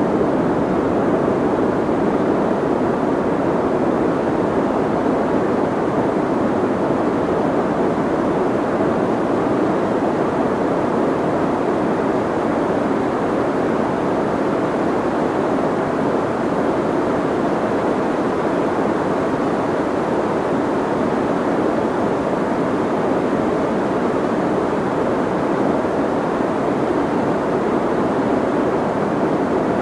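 Soft white noise: a steady, unbroken rushing hiss, weighted toward the low and middle range, so it sounds muffled rather than sharp.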